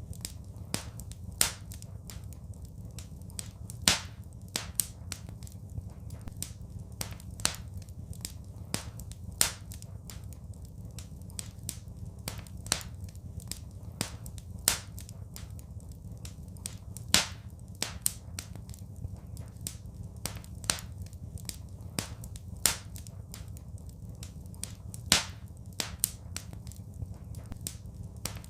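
Wood fire crackling: irregular sharp pops and snaps, a few much louder than the rest, over a steady low rumble.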